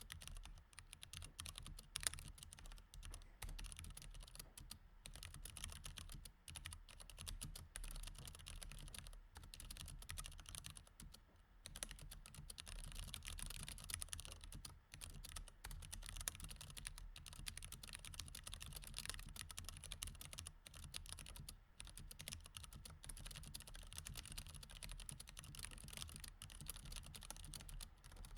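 Quiet, continuous typing on a mechanical keyboard with Cherry MX Red switches: a fast, unbroken run of key clacks with a brief lull about eleven seconds in, over a faint low hum.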